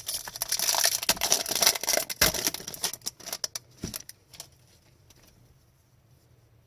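Foil wrapper of a hockey card pack being torn open and crinkled, a loud crackling rustle for about three seconds, then a few light clicks and rustles that stop about four and a half seconds in.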